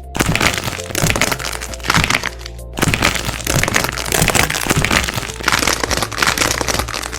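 Hardened wax coating on squishy toys being squeezed and cracked: a dense run of fine cracking and crunching that pauses briefly about two and a half seconds in, then goes on.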